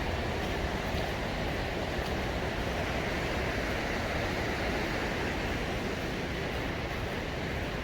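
River rapids rushing by a mill: a steady roar of fast water.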